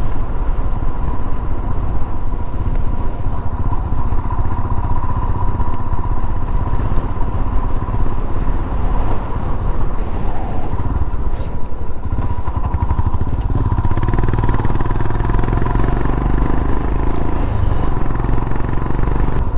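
Royal Enfield Himalayan's single-cylinder engine running steadily as the motorcycle is ridden along the road.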